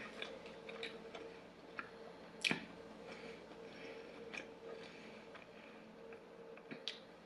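A person chewing food with soft, wet mouth clicks, one sharper click about two and a half seconds in.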